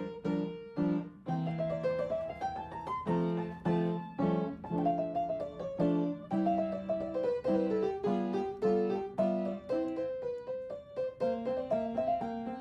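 Solo piano music: a flowing melody that steps down and up over repeated lower chords.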